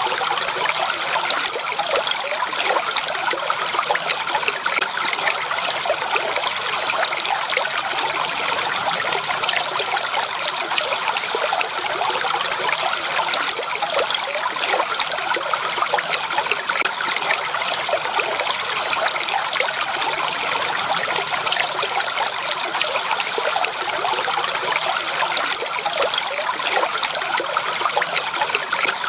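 A shallow stream of running water, babbling and trickling steadily over stones with dense small splashes, unchanging throughout.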